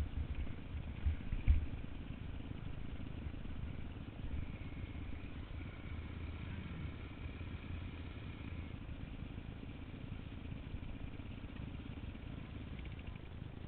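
Dirt bike engine running at low revs, with a few louder bumps in the first second and a half, then a steady low drone.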